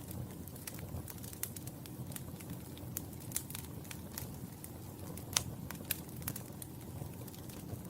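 Wood fire burning in a fireplace: a steady low rumble of flames with frequent irregular sharp crackles and pops, one louder pop about five seconds in.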